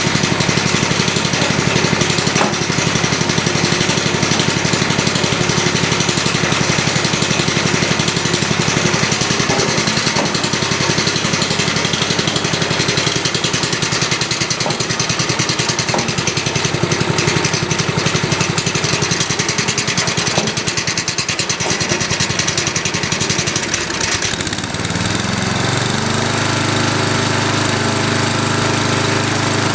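DR brush mower's 10.5 hp Briggs & Stratton Industrial/Commercial engine running with a fast, even firing rhythm. About 25 seconds in its pitch rises and then holds steady.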